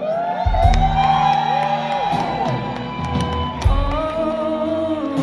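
Live rock band playing: a voice slides up into a long held high note, then holds a second note, over sustained low chords, with a few drum and cymbal hits.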